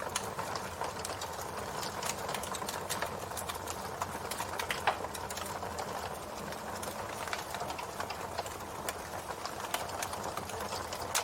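Campfire burning, with a steady hiss of flames and a constant irregular crackle of popping wood, one louder pop about five seconds in.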